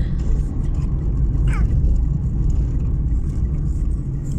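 Steady low rumble of a car driving, heard from inside the cabin. A short high falling squeak or cry cuts through about a second and a half in.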